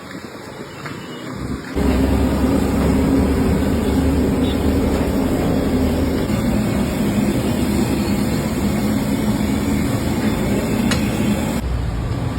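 Steady street traffic noise with a low engine hum, which comes in abruptly a little under two seconds in.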